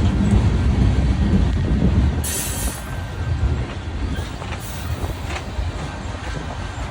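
Union Pacific freight train rolling by with a steady low rumble, a brief high wheel squeal about two seconds in, and a few sharp clicks of wheels over rail joints.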